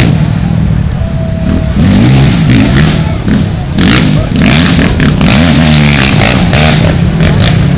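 Racing ATV engines revving hard as quads pass, their pitch rising and falling with the throttle, mixed with short noisy rasps.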